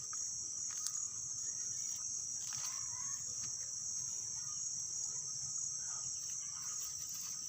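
Insects chirring continuously in a steady, high-pitched shrill.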